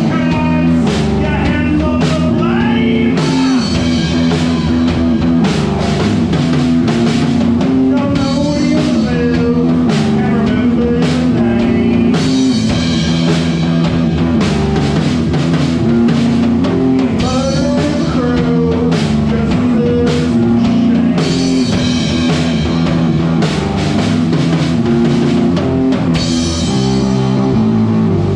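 Indie punk rock band playing live: electric guitars, bass and a drum kit driving a steady rock beat, with wavering melodic lines over the top.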